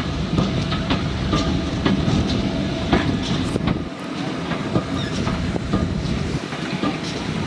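Railway train running on the line, its wheels clacking over the rail joints over a low rumble; the rumble eases about four seconds in.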